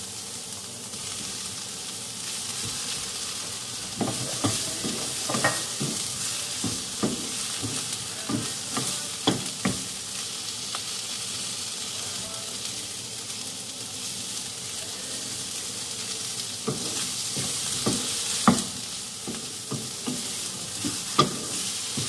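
Diced vegetables and sliced chorizo sizzling steadily in a non-stick frying pan as they are sautéed. A wooden spoon stirs them, with scattered short scrapes and taps against the pan.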